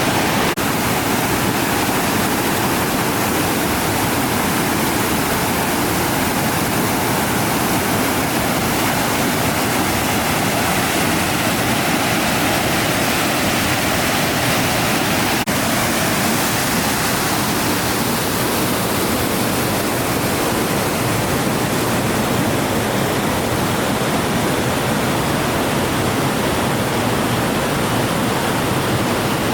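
Steady rush of water from a waterfall, an even unbroken noise.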